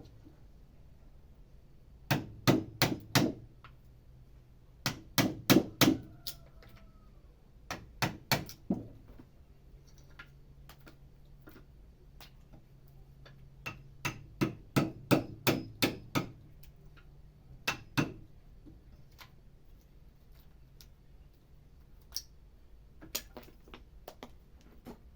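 Hammer striking a wood chisel that is cutting into a wooden stump: runs of four to ten sharp blows, about three a second, separated by pauses of a few seconds, with a few lighter taps near the end.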